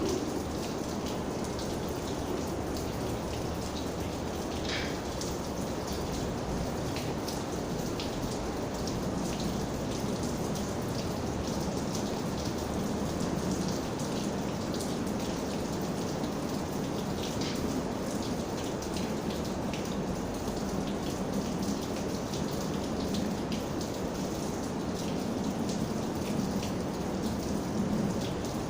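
Steady rain falling, with scattered raindrops tapping sharply on a surface over the even rush.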